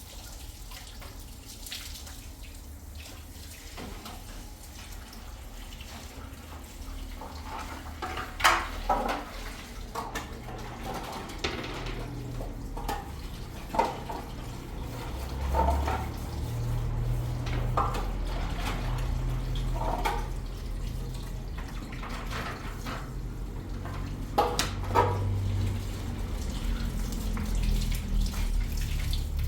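Water running, with a dozen or so clinks and knocks scattered through it; the low rumble of the water grows stronger about a third of the way in.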